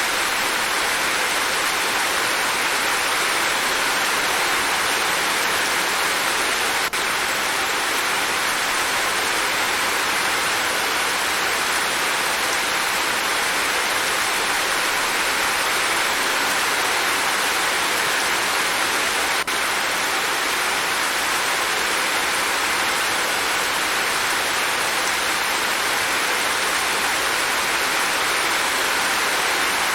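Steady rain falling, an even unbroken hiss with no single drops standing out. Two faint clicks come through, about a quarter of the way in and again past the middle.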